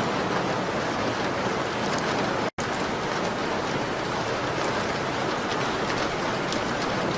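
Steady rain on a window, an even hiss with faint scattered high ticks. The sound cuts out completely for an instant about two and a half seconds in.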